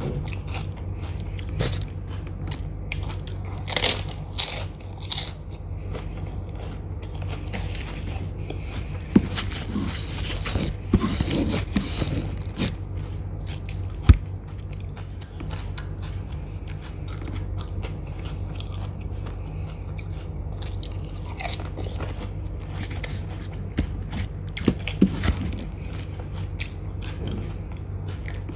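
Close-up eating sounds: crisp panipuri (golgappa) shells being bitten, crunched and chewed, in irregular crunches that come thickest in the first half and again late on. A steady low hum runs underneath.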